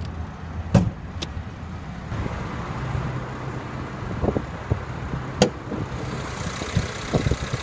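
Mercedes-Benz E350's 3.5-litre direct-injection V6 idling steadily, with several sharp clicks and clunks of the hood release and latch as the hood is popped open. The loudest clunk comes about five and a half seconds in.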